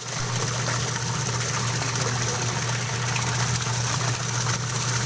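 Washing machine running: a steady motor hum with water churning in the tub.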